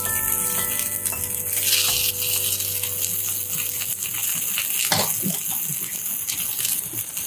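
Burrito frying in olive oil in a skillet, a steady sizzle, with a couple of faint knocks about five seconds in. A rising run of music notes fades out during the first second or so.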